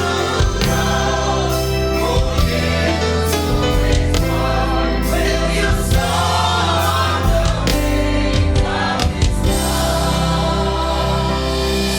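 A group of voices singing a gospel worship song together, with instrumental accompaniment: sustained low notes and regular percussive strikes.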